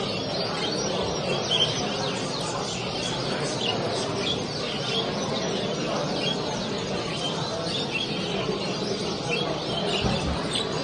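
Many small cage birds chirping and singing at once, short high chirps overlapping continuously, over a steady background murmur.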